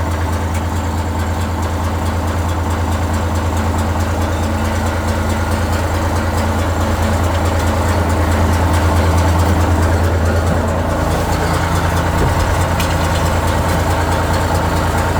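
A large vehicle engine idling steadily with a deep, even pulse. The truck being tried adds no starter click, its batteries dead.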